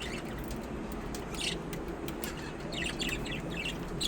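Birds chirping in short, high notes: a few around one and a half seconds in, then a quicker run of chirps in the last second and a half, over steady low background noise.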